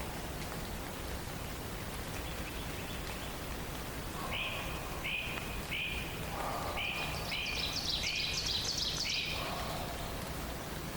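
Songbirds calling over a steady hiss: one bird repeats a series of about eight short, identical notes, and from about halfway through higher, quicker notes overlap it before both stop near the end.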